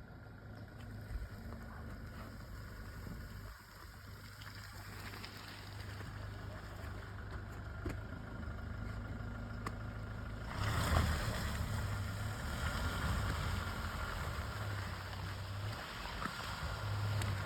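Toyota Hilux pickup driving slowly on a snowy, icy road: a low, steady engine hum with tyre and road noise, which grows louder about ten seconds in.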